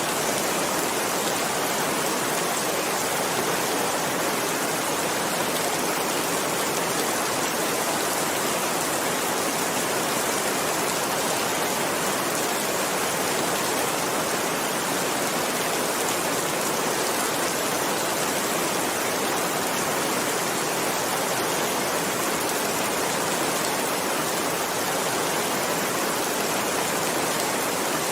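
Heavy rain falling steadily, a dense even hiss of raindrops with no thunder or single drops standing out.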